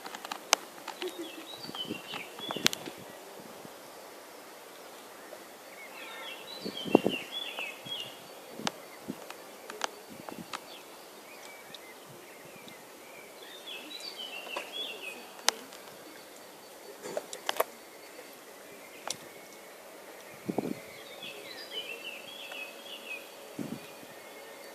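A songbird singing short twittering phrases, one every several seconds, over quiet outdoor background, with scattered sharp clicks and a few low thumps.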